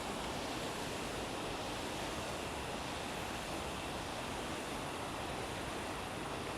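River water rushing: a steady, even roar of flowing water with no breaks.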